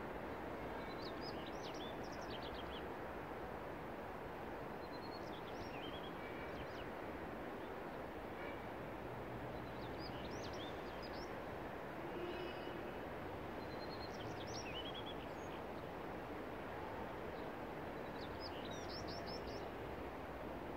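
A songbird singing a short phrase of quick chirps and trills about every four seconds, five times, over a steady hiss of outdoor background noise.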